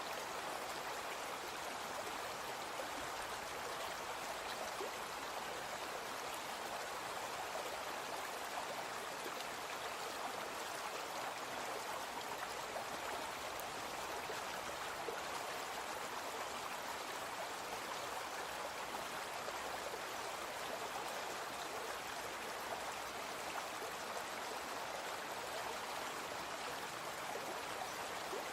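A brook flowing, a steady, even rush of running water.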